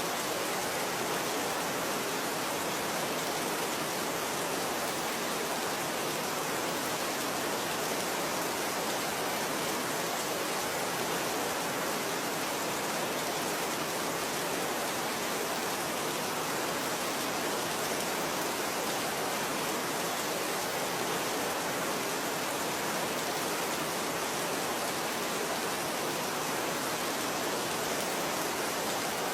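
Steady rain: an even, unbroken hiss of many drops, with no thunder or single drops standing out.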